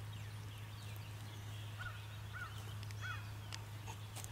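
Faint bird calls: three short arched notes about half a second apart, over a steady low hum.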